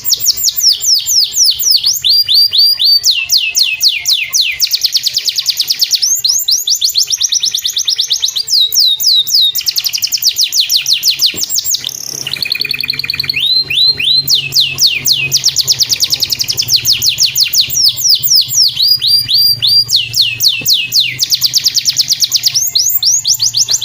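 Domestic canary singing long, fast trills: rapid runs of repeated sweeping notes that change in pitch and speed every second or two, with brief breaks between phrases.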